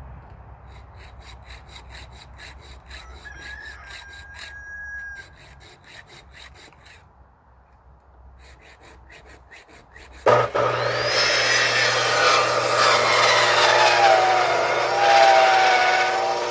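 Firewood sawing: for a few seconds a regular scraping rhythm of about four strokes a second. About ten seconds in, an electric saw starts suddenly and cuts loudly into a log, its pitch dipping and recovering under load.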